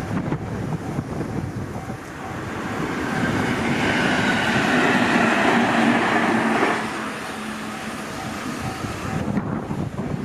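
Electric train running past on the line at a level crossing. It builds up over a couple of seconds, runs loudest for about three seconds and drops away suddenly as it clears. The crossing's warning bell dings faintly and evenly throughout.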